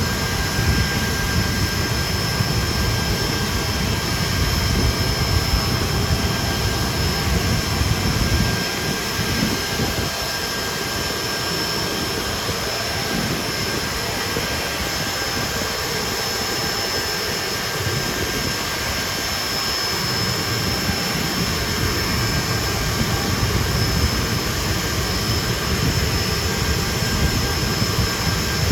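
Hawker Siddeley Nimrod's Rolls-Royce Spey turbofan engines running steadily, with a constant high whine over a deep rumble. The rumble eases for about ten seconds in the middle, then comes back.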